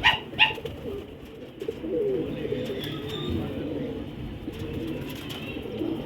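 Domestic pigeons cooing, with two sharp sounds in the first half-second.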